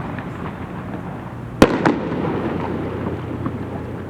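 Aerial fireworks: one sharp bang of a shell bursting about a second and a half in, a smaller bang just after, then a spreading crackle.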